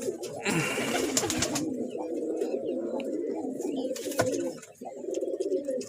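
Several domestic pigeons cooing continuously, their calls overlapping. There is a brief rustling noise about half a second in and a sharp click about four seconds in.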